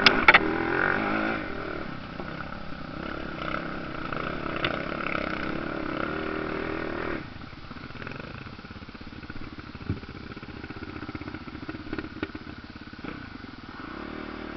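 Motocross motorcycle engines running, loudest in the first couple of seconds, with two sharp clicks right at the start. The engine sound drops off noticeably about seven seconds in, leaving a quieter rumble.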